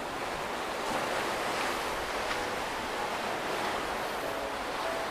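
Sea surf washing with wind on the microphone: a steady, even noise.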